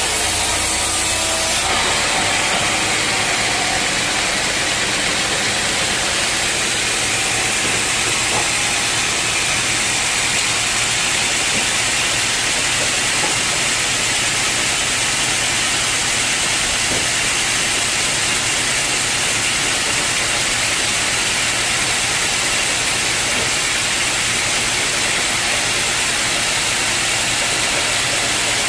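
Sawmill saw cutting through an old teak log, a loud steady rasping hiss. About two seconds in, a low hum drops away and the sound turns higher.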